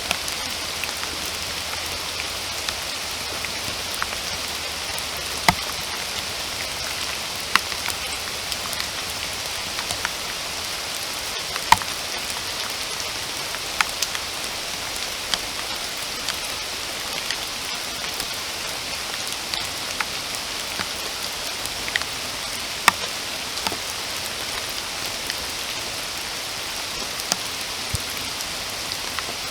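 Steady rain falling in a forest, an even hiss with scattered sharp drops landing close by, a few of them standing out loudly.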